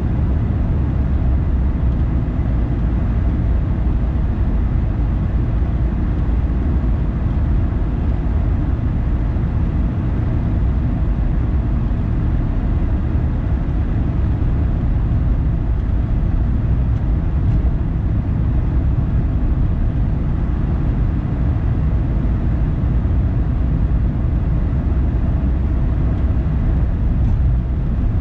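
Car driving along at steady speed: an even, low rumble of tyres and engine that does not change.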